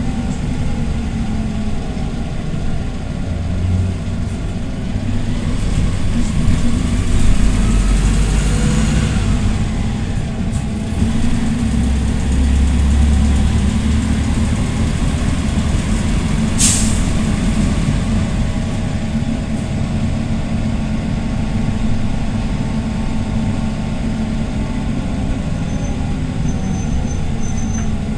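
PAZ-320405-04 Vector Next bus running on the road, its engine note rising and falling as it speeds up and slows. About two-thirds through there is one short, sharp hiss of air from the bus's compressed-air system.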